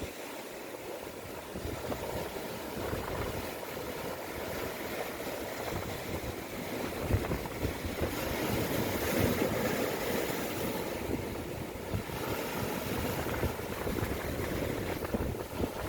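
Strong wind buffeting the microphone in uneven gusts, over the steady wash of rough surf.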